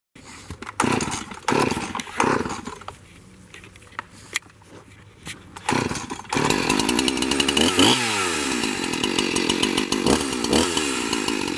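Chainsaw engine: a few short bursts in the first seconds, then from about six seconds in it runs continuously, its pitch dropping and climbing again around eight and ten seconds as the throttle changes.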